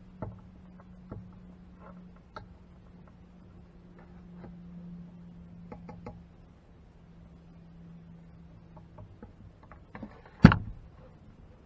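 Scattered light taps and clicks of a hot tool working melted plastic over cracks in a plastic ATV fuel tank, over a steady low hum, with one sharp knock about ten and a half seconds in.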